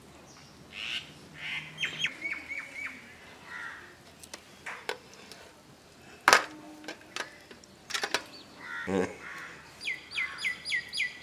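Birds chirping, ending in a run of about six quick, falling chirps. A little past the middle comes a single sharp clink with a brief ring, the loudest sound.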